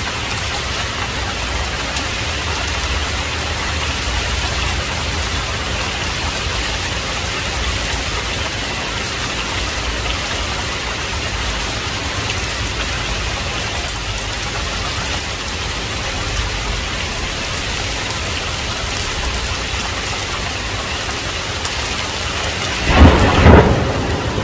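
Heavy rain falling steadily, with a close thunderclap near the end: a sudden loud double crack that rumbles briefly.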